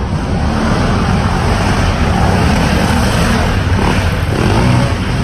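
Motocross dirt bike engines running loudly and steadily.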